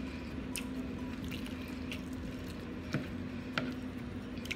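Close-up chewing with the mouth closed: soft wet mouth clicks every second or so, over a faint steady hum.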